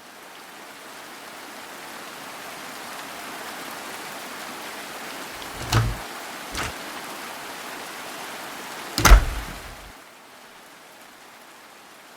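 Steady rain sound effect fading in, then a door opening and shutting: two thuds about six seconds in and a louder bang about nine seconds in, after which the rain is quieter, as if shut out behind the closed door.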